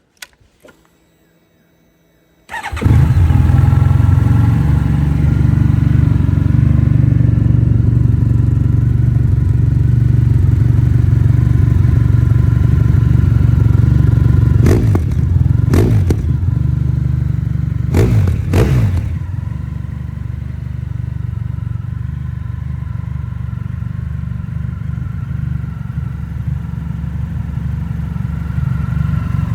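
Honda VFR1200X's V4 engine, breathing through an aftermarket SP Engineering titanium exhaust, starting after a short click about two and a half seconds in, then idling, with a few quick throttle blips near the middle before settling back to idle.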